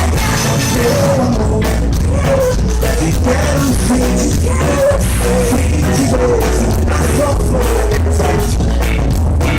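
A band playing a rock-pop song with a steady drum beat and heavy bass, while a singer carries a wavering melody over it.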